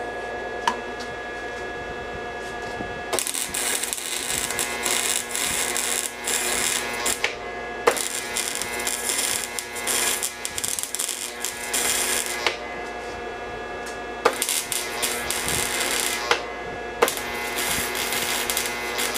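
MIG welder laying beads on a steel exhaust pipe: the arc crackles and sizzles in four runs of two to five seconds, with short pauses between them. A steady hum runs underneath.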